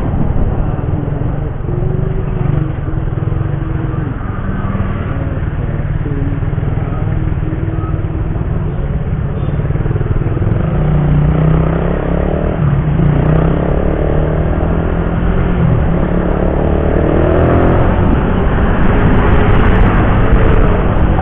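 Motorcycle ride on the road: steady engine noise with a low rush of wind on the microphone, and an engine note that rises in pitch several times as the vehicle speeds up, strongest in the second half.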